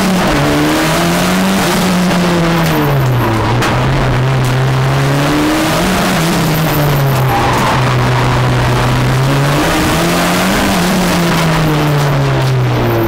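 Turbocharged four-cylinder engine of a Fiat Uno Turbo race car, heard inside the cabin, climbing in revs and dropping back three times in a row, with steady stretches between, as the car is driven hard through a drift run.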